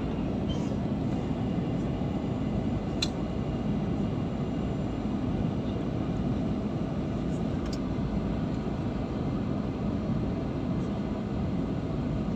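Steady cabin noise of an Airbus airliner, the engines and rushing air heard from inside the passenger cabin as an even, low rumble with a faint hum. A couple of faint clicks come through about three and eight seconds in.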